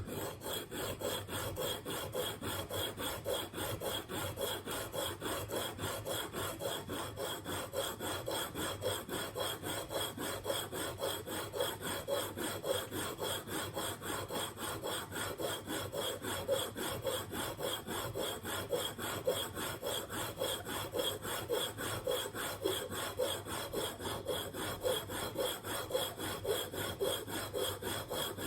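Steel single-bevel broadhead held in a sharpening jig being stroked back and forth on a diamond sharpening plate, a steady, even rasping rhythm of strokes. The bevel is being ground down until the edge is fully cut and a burr forms.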